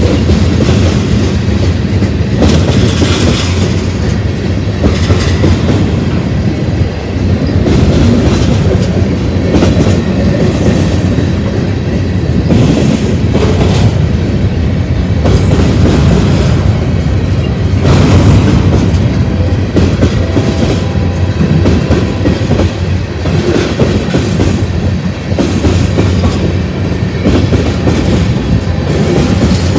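Manifest freight train's cars rolling past, a steady loud rumble with the wheels clicking over rail joints now and then.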